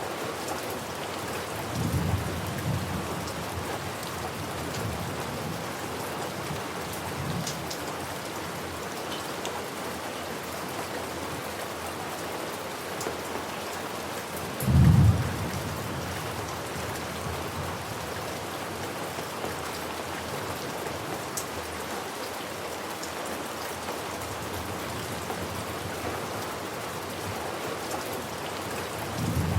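Steady rain falling, with low rolls of thunder: a rumble about two seconds in, a short one a few seconds later, a louder sharp crack about halfway through, and another rumble starting at the end.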